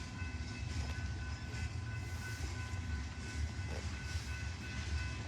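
Freight grain train running, a steady low rumble with faint, steady high-pitched tones over it.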